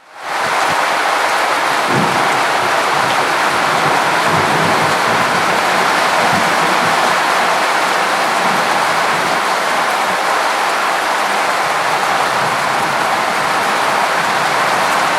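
Steady heavy rain falling during a thunderstorm, an even hiss that fades in at the very start and then holds level.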